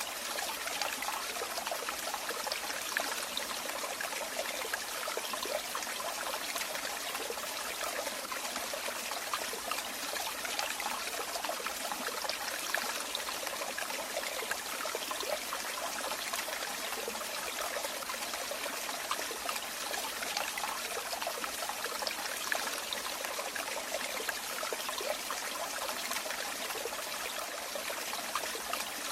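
Running water trickling and splashing steadily, like a small stream or water falling over stones, with an even, unbroken sound and no pauses.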